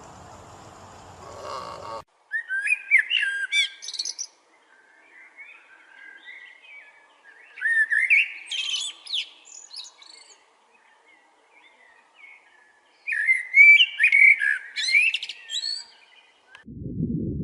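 A small bird singing: three bursts of quick, warbling, rapidly changing high notes, with softer twittering between them.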